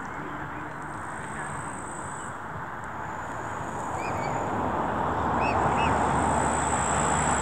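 A few short, high calls from waterfowl, bunched about halfway through, over a steady rushing background that swells louder in the second half.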